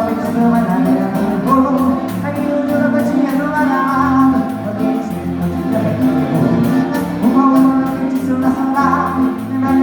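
Live gaúcho dance-band music: accordion over a steady beat, continuing between sung lines.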